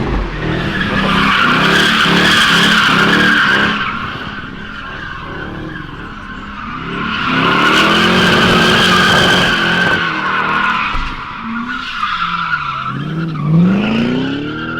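Pontiac GTO doing donuts: the tires squeal loudly in two long stretches while the V8 holds high revs. Near the end the revs drop, then climb sharply again.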